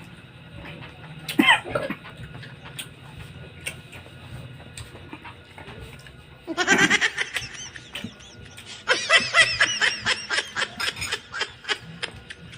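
High-pitched laughter in quick repeated bursts, once about six and a half seconds in and again from about nine seconds in, after a brief falling squeal about a second and a half in.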